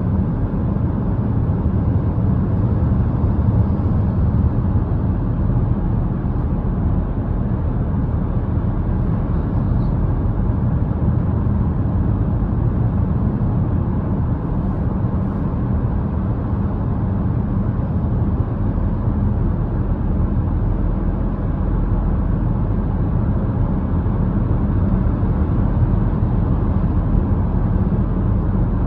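Steady running noise of a road vehicle driving at a constant speed: a low, even rumble of engine and tyres on the road that does not change.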